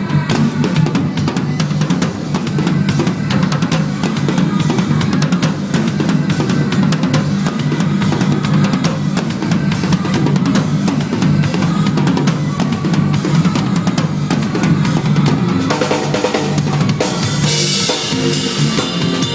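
Drum kit played at a busy pace, bass drum and snare strokes over the song's backing music, with cymbals washing louder near the end.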